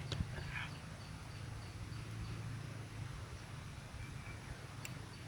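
Outdoor background: a steady low hum with faint, high chirps repeating about two or three times a second that fade out about halfway through.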